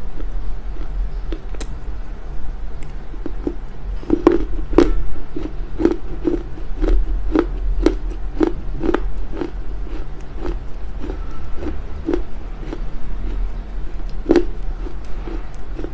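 Chewing a bite of smoked Chinese loess clay: short crisp crunches about twice a second, starting about four seconds in, over a steady low hum.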